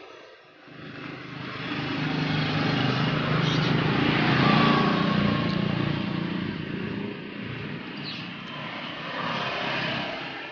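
A passing vehicle's engine: a hum that grows louder over the first few seconds, peaks near the middle, then fades away.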